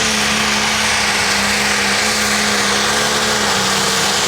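A pulling vehicle's engine running at high, nearly steady revs under load, loud and held at one pitch as it drags the weight-transfer sled down the track.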